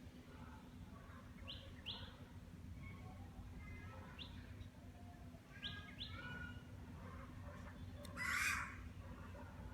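Wild birds calling: several short, quickly rising chirps and stepped call series, with one louder, harsher call about eight seconds in. A steady low hum runs underneath.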